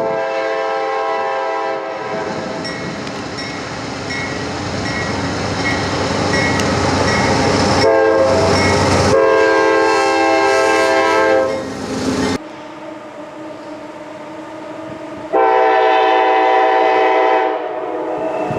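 GE AC44CW diesel-electric freight locomotive sounding its multi-note air horn in several long blasts over the rumble of the passing train: once at the start, again from about eight seconds in with a short break, and once more near the end. The train noise drops suddenly about twelve seconds in.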